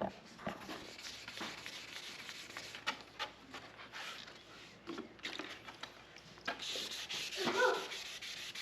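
Hand wet sanding of a motorcycle headcowl with 1000-grit sandpaper: irregular rubbing strokes of paper on the painted fairing, getting louder and steadier near the end.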